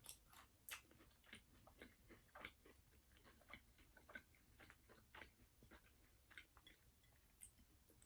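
Quiet chewing of crispy fried chicken skin: a steady run of small crunches and mouth clicks.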